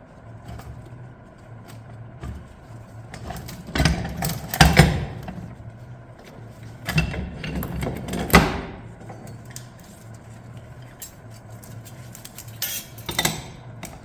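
Metal clutch plates and steels from an Allison automatic transmission's clutch pack clinking and clattering against each other as they are handled. Their friction lining is burnt away by overheating. There are three bursts of clatter, with a steady low hum underneath.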